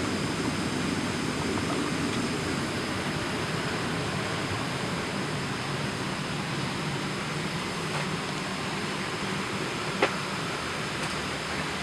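Steady rushing hiss of air through a parked Boeing 737's cabin ventilation, with a single short click about ten seconds in.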